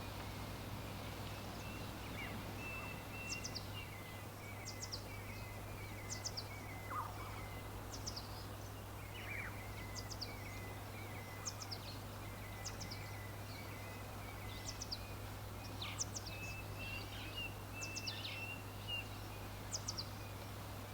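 Songbirds calling: a high, sharp note repeated about once a second, often doubled, over a softer ongoing chatter, with a steady low hum and background hiss beneath.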